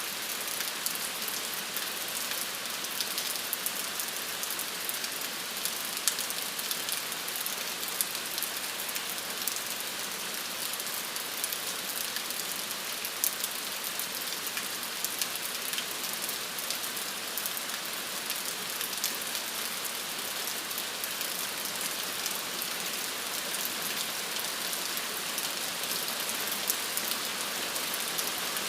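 Steady rain falling: an even hiss with many small, scattered drop ticks, and no letting up.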